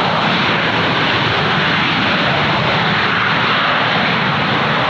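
Airliner engines running, a steady, loud, even noise that neither rises nor falls.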